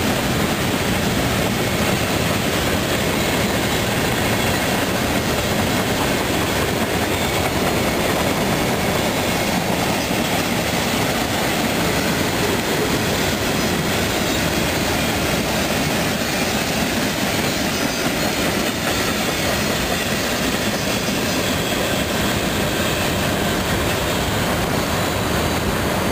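Loaded hopper cars of a CSX Coke Express freight train rolling past, a steady rumble and clatter of steel wheels on the rails.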